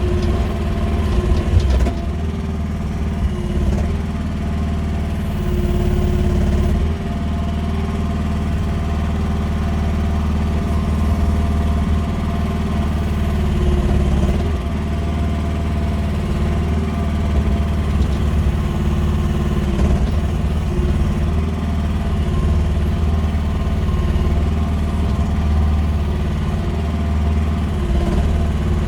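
Chinese-built QH13R mini excavator's small diesel engine running steadily as the machine works, its pitch dipping and rising a little. A few knocks in the first two seconds.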